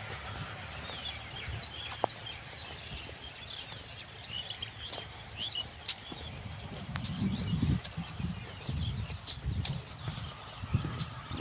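Many birds chirping with short, quick calls over a steady high-pitched insect drone. Low rumbles come and go in the second half.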